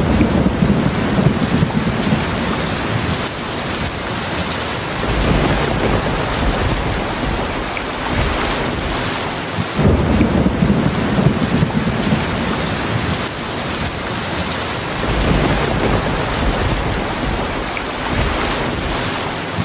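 Heavy rain falling steadily, with rolling thunder rumbling twice: once at the start and again just before halfway through, each rumble lasting several seconds.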